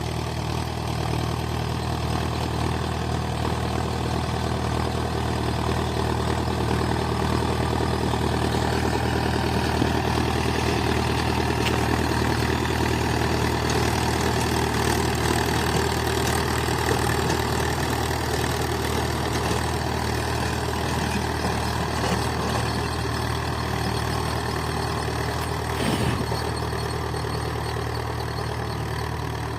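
Mahindra 575 DI tractor's diesel engine running steadily, with one short knock near the end.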